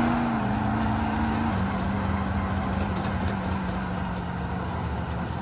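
A vehicle engine running. Its pitch eases down over the first second and a half, then holds steady.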